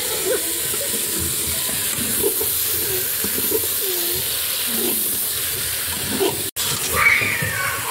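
Aubergine slices frying in oil in an open aluminium pressure cooker, sizzling steadily as a steel ladle stirs them. The sound breaks off for an instant about two-thirds of the way through.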